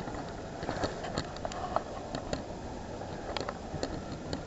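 Outdoor city ambience in a snowstorm: a steady low rumble with scattered light clicks and crunches.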